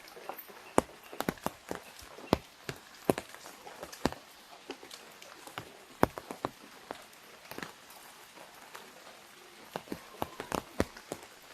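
Raindrops hitting an umbrella canopy overhead: irregular sharp taps, some much louder than others, over a soft steady hiss of rain.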